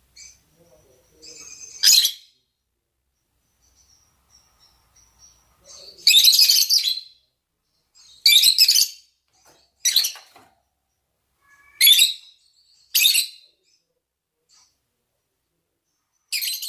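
Lovebirds (rosy-faced and Fischer's) giving mating calls: about seven short, shrill, high-pitched shrieks a second or two apart, with faint chirps between them.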